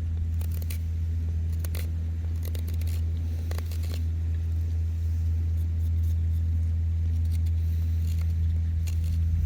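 Knife whittling a driftwood spoon-fork: short, irregular scraping clicks over a steady low rumble.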